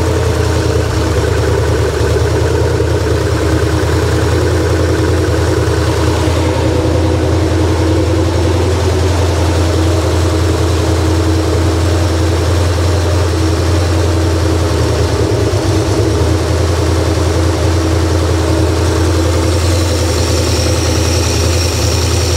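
Freshly rebuilt Ford 302 small-block V8, carbureted, running steadily at idle on an engine stand during its first run while being tuned.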